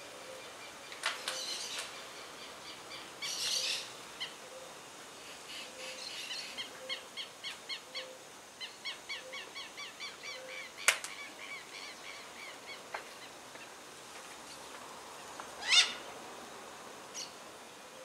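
Birds calling in a tree: a few loud, harsh screeching calls and a run of short repeated chirps, about two a second, in the middle, with one sharp click about eleven seconds in.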